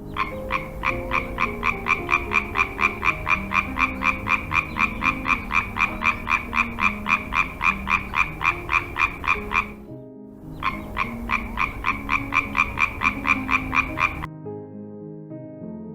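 An animal call repeated in a fast, even train of short pulses, about four a second. It stops about ten seconds in, starts again after a brief gap, and stops for good shortly before the end.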